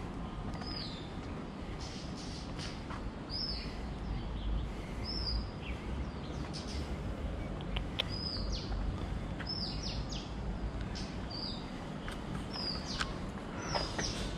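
A bird calling over and over: a short, high note sliding downward, repeated about once a second, over a steady low background rumble.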